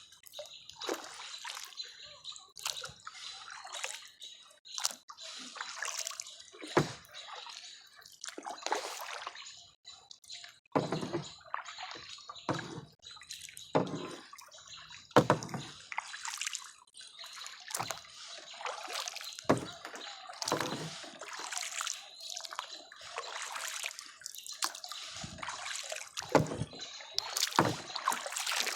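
Kayak paddle blades dipping into lake water stroke after stroke, a splash every second or two, with water dripping and trickling off the blades.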